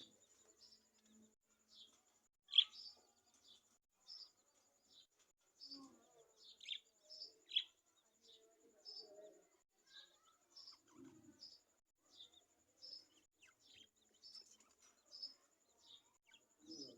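Lovebirds chirping: short high chirps repeating about twice a second, one louder chirp about two and a half seconds in.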